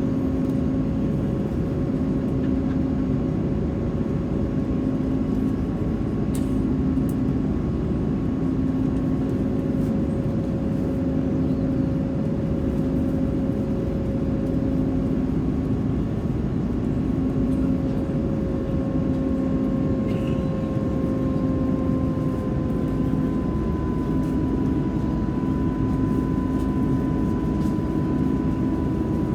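Airbus A330-300 jet engines and airflow heard from inside the passenger cabin: a steady roar with engine tones over it. The tones drift slightly lower in pitch about two-thirds of the way through, and under them runs a low hum that pulses about once a second.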